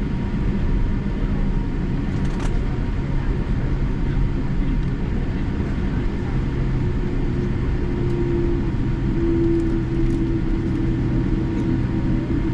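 Steady low rumble and hum of a Boeing 787-8's General Electric engines heard from inside the cabin at low taxi power, with one faint click about two and a half seconds in.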